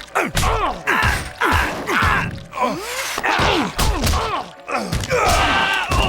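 A cartoon beating: rapid punch and kick impacts about twice a second, each with a pained cry falling in pitch.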